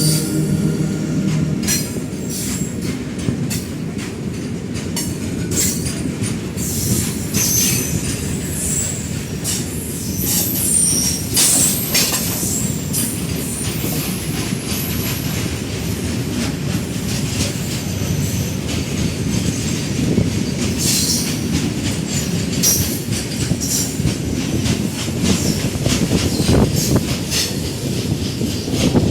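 A train running along the track: a steady rumble, with wheels clattering over rail joints and high-pitched wheel squeal, heaviest in the middle stretch. A low hum dies away in the first second or two.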